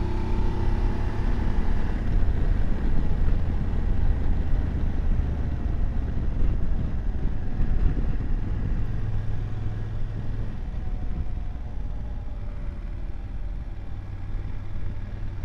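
BMW F750GS parallel-twin engine running at road speed, with a heavy wind rumble on the microphone. The engine note glides in pitch during the first couple of seconds, then holds steady.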